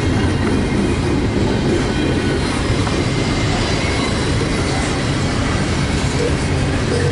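Freight train's rail cars rolling past close by, a loud, steady rumble of wheels on track.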